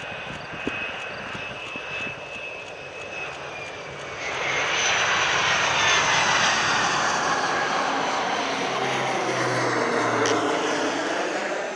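Turbofan-powered Boeing MQ-25 Stingray drone's jet engine whining, growing much louder about four seconds in as the aircraft passes by, its tone sweeping slowly.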